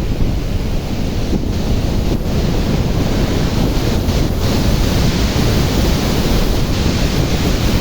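Floodwater rushing through the spillway of the Sripada Yellampalli barrage, a loud, steady rush, with wind buffeting the microphone.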